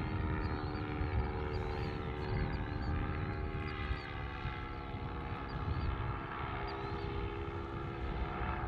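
Paramotor engine and propeller droning steadily in flight overhead, the pitch sagging slightly about halfway through, with wind rumbling on the microphone.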